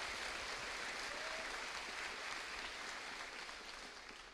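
Audience applause for award recipients, steady and then dying away near the end.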